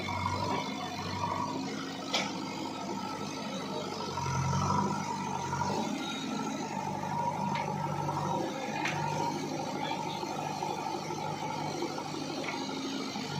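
Heavy diesel engine running steadily, working harder and louder from about four seconds in, with a few sharp clicks or knocks over it.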